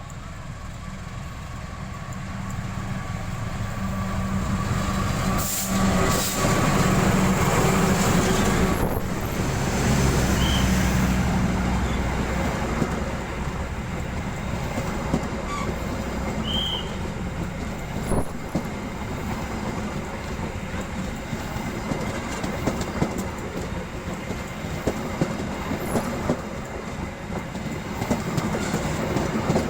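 A train passing close by on the track, wheels clattering over the rail joints. It grows louder over the first few seconds, is loudest for several seconds, then runs on as a steady rumble with a string of sharp clicks.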